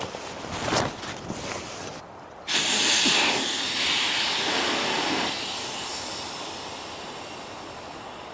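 Light rustles and clicks, then about two and a half seconds in a loud, even rain hiss starts suddenly and eases over a few seconds to a steady hiss.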